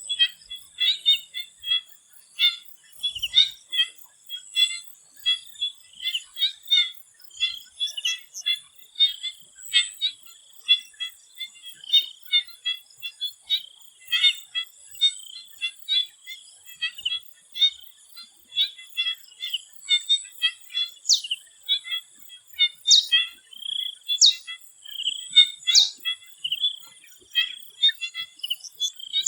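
A chorus of swamp frogs making dense, overlapping short high calls over a steady high insect drone. A few quick rising calls stand out about two-thirds of the way in.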